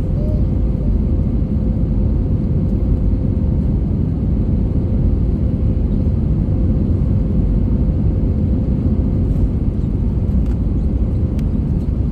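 Airbus A320 cabin noise: a steady, loud low rumble of the engines and airflow, with a faint steady hum on top.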